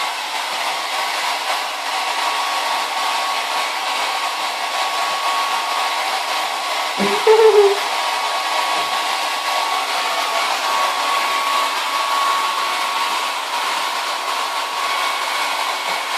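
Hair dryer blowing steadily, with a thin steady whine over its rush of air. About seven seconds in, a short, louder pitched sound cuts in briefly.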